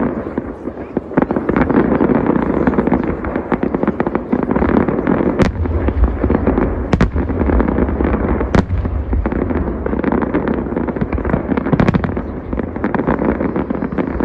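Large fireworks display: dense, continuous banging and crackling of many shells going off together, with three sharper cracks standing out in the middle stretch.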